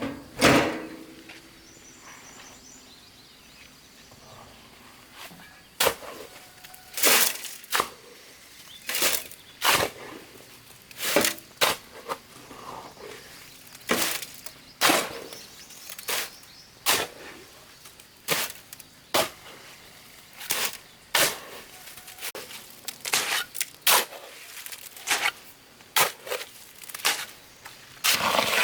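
A long series of sharp knocks of hard objects striking, irregularly spaced about one a second, starting after a few quiet seconds.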